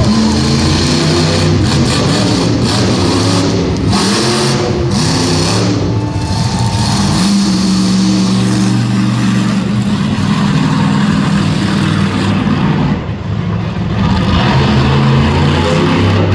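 Monster truck engine revving hard through a run, its pitch repeatedly climbing and falling as the throttle is worked, with a short lift off the throttle about 13 seconds in.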